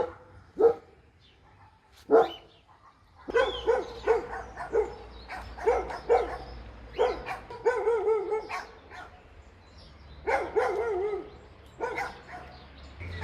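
An animal's short, pitched calls with wavering pitch: a couple of sharp ones near the start, then a long irregular run from about three seconds in.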